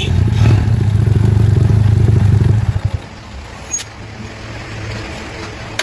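Motorcycle engine running with a dense low rumble, which falls away sharply a little under three seconds in, leaving a quieter hiss with one click about a second later.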